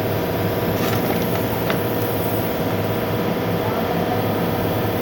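Car engine idling steadily with its electric radiator cooling fan running, a low steady drone with a faint click about a second in and another a little later.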